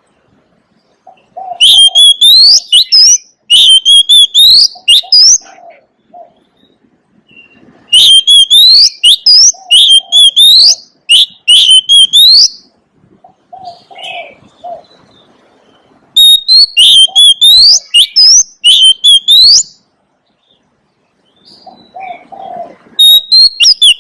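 Oriental magpie-robin singing: loud phrases of clear, rising whistled notes, each phrase lasting a few seconds, repeated four times with short pauses. Softer low notes come in between the phrases.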